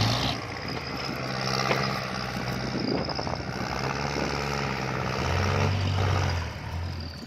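Kubota L4708 tractor's diesel engine running under load, with its note shifting in pitch about a second in and again near five seconds as the load changes.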